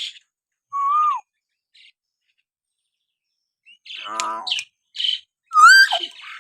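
Hill myna whistling and calling. There is a clear whistle that rises and then drops about a second in. A few seconds later comes a harsh call with short high chirps, and near the end a looping whistle that rises and falls.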